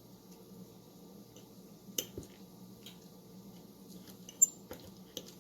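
Forks shredding cooked chicken thighs: a few sharp metal clinks and scrapes against the dish, the loudest, with a brief ring, about four and a half seconds in, over a faint steady hum.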